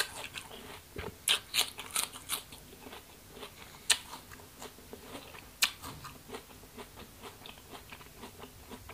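Close-miked chewing of crisp rose apple (wax apple): crunches that are loudest and densest in the first few seconds, with a couple of sharp single crunches in the middle, then smaller, quieter chews toward the end.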